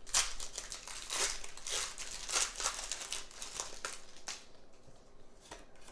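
Foil wrapper of a Pokémon Crown Zenith booster pack crinkling and tearing as it is opened, a quick run of crackles that dies down about four seconds in.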